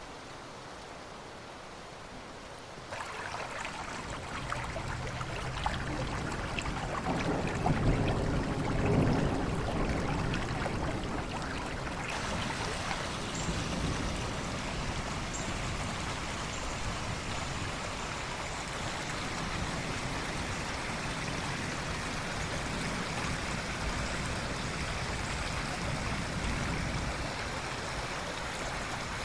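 River water running steadily. It comes in about three seconds in over a quieter rain-like hiss, swells with a low rumble for a few seconds, then settles into a steady, brighter rush from about twelve seconds in.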